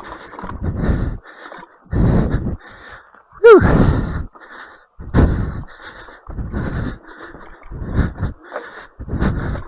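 A person breathing hard and rhythmically into the microphone, a loud puff about every second, with a voiced falling sigh about three and a half seconds in.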